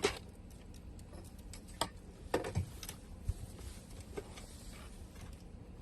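Scattered light clicks and knocks, about half a dozen, from fuel pump module parts being handled and fitted together, with one duller low thud in the middle.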